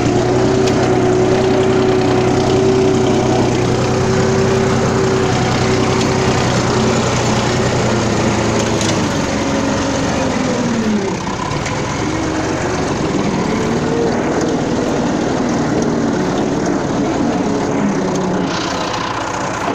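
Tractor engine running steadily; about halfway through its note sags and then climbs back up.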